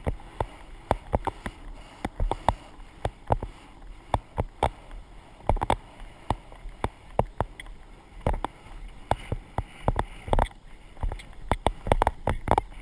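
Horse moving round the jumping arena: hoofbeats and tack knocking in a rhythm of sharp knocks, two or three a second, over a low rumble, as picked up by a camera riding along.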